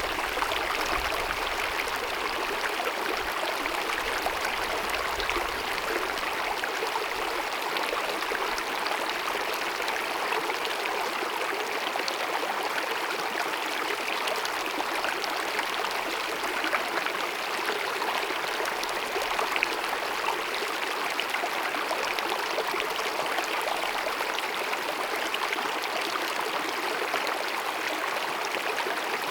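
Small glacier-fed mountain stream babbling and gurgling over rocks in a steady, even rush of water.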